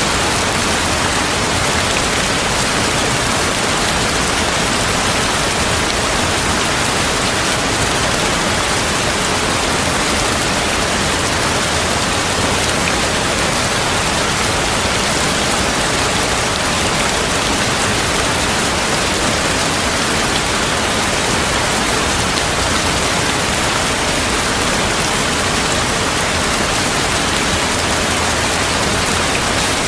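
Steady, heavy rain falling, a dense even hiss with no thunder.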